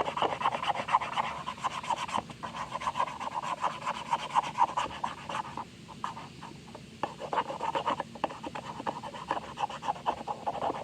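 Paint marker scribbling rapidly back and forth on a plastic toy refrigerator, a dense run of scratchy strokes that thins out briefly about six seconds in before picking up again.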